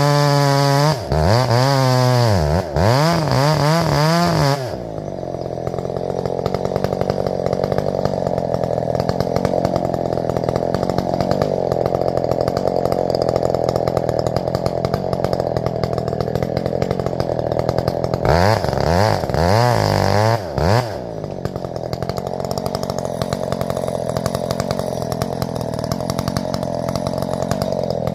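Gas chainsaw revving up and down in short bursts, then settling into a steady, lower-pitched run as it cuts into a grand fir trunk. It revs up and down again about two-thirds of the way through and goes back into the cut.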